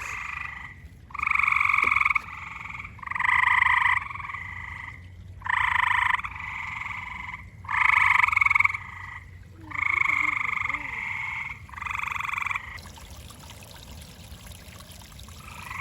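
A chorus of frogs chirping: loud trilled calls about a second long, repeating every two seconds or so. The calls stop near the end.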